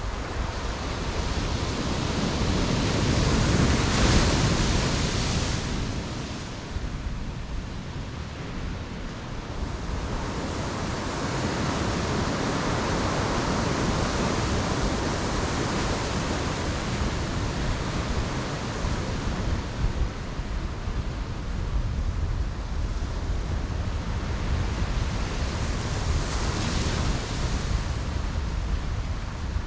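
Ocean surf breaking on a beach: a wave crashes about four seconds in, a long wash of surf follows, and another wave breaks near the end.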